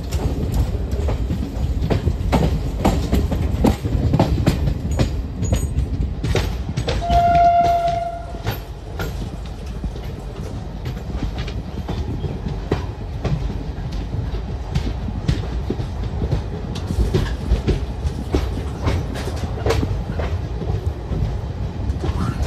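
Garib Rath Express passenger train running, heard from an open coach doorway: a steady low rumble with the wheels clattering over the rail joints. A train horn sounds once, a single steady note held for about a second and a half, around seven seconds in.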